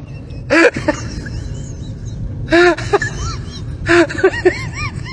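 An animal calling in short cries that rise and fall in pitch: loud bursts about a second in and near the middle, then a quicker run of shorter calls toward the end.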